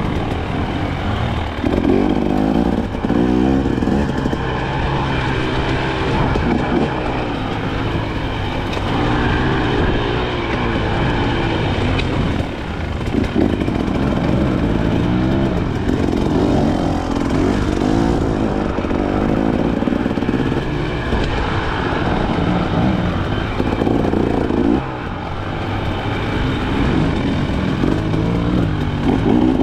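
KTM 300 XC-W two-stroke single-cylinder dirt bike engine being ridden hard, revs rising and falling again and again.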